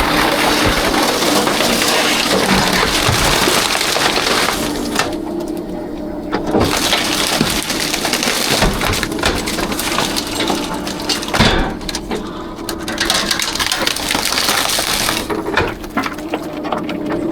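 Rear-loader garbage truck's hydraulic compactor running, with a steady hum over a dense crunching and crackling of trash being crushed.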